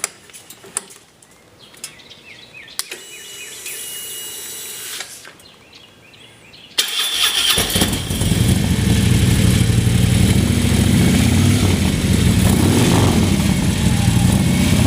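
A few clicks and a short steady whir, then about seven seconds in a Harley-Davidson 103 cubic-inch V-twin cranks and fires. It settles into a steady, loud idle through a Fuel Moto Jackpot 2-into-1-into-2 stainless exhaust with 4.5-inch mufflers and no catalytic converter.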